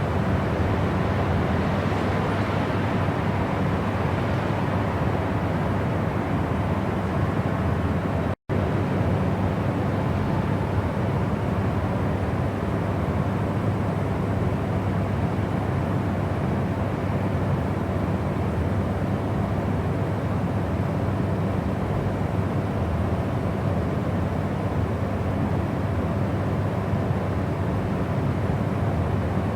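Steady white-noise track: an even, deep rushing noise, heavier in the low end. It drops out for a split second about eight seconds in.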